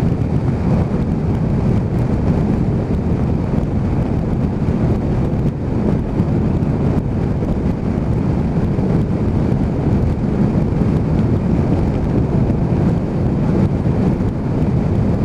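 Motorcycle running at speed, its engine a steady low drone under heavy wind buffeting on the helmet-mounted microphone.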